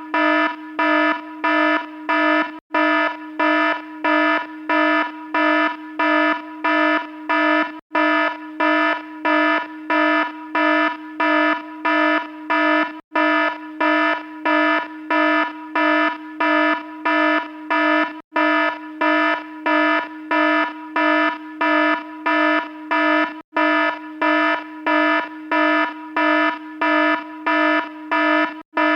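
Electronic alarm beeping: a harsh, buzzy tone repeating about twice a second, with a brief break in the pattern every five seconds or so.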